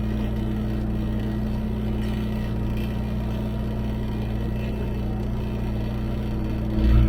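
Bobcat S650 skid steer's diesel engine running at a steady pitch, heard from the operator's seat, with a louder surge in the engine near the end.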